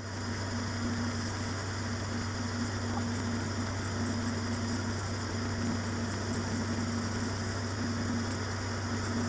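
A workshop machine tool's electric motor running steadily, with a constant low hum.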